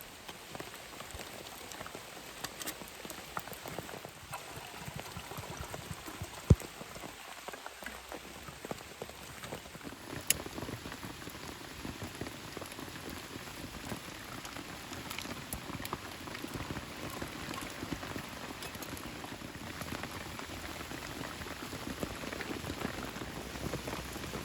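Steady rain falling, a dense even hiss of fine drops, with two sharp clicks about six and ten seconds in.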